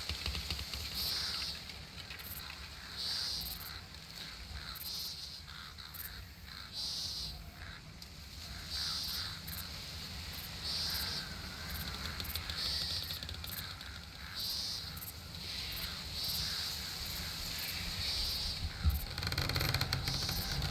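Summer nature ambience: a short high-pitched call repeats about every two seconds over faint scattered chirps and a low rumble, which swells near the end.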